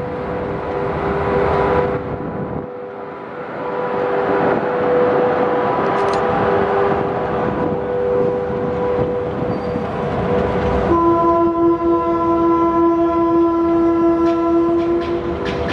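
SS8 electric locomotive hauling a passenger train away, with the rumble of the train and a steady electrical hum of several tones. About eleven seconds in, a horn sounds for about four seconds.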